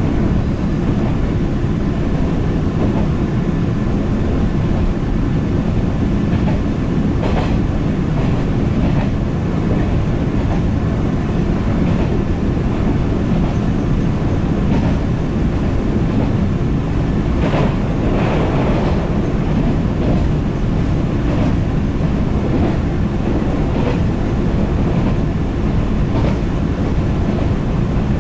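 A JR 113-series electric train running along the track, heard from inside the carriage: a steady rumble of wheels on rail, with a few sharper rail-joint clacks now and then.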